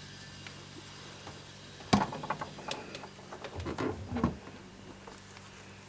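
A cat shifting about inside a refrigerator, with a sharp knock about two seconds in, then scattered light clicks, rustling and a few soft thumps, over a steady low hum.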